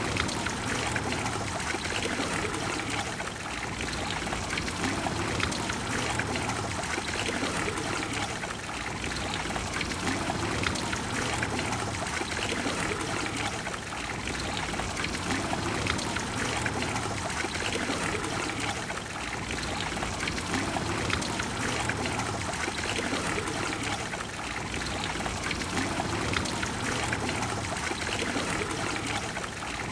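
Water of the Trevi Fountain cascading and pouring into its basin, a steady, even rush of falling water.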